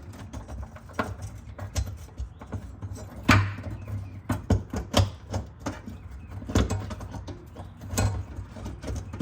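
Irregular clicks and knocks of hand tools working a fastener that keeps spinning instead of loosening, over a steady low hum.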